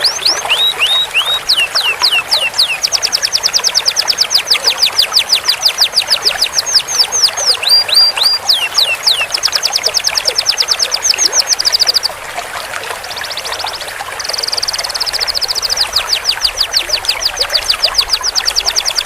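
Canary singing long rolls: long runs of rapid, evenly repeated high notes, each sweeping downward, changing phrase every few seconds with a brief dip about two-thirds of the way through.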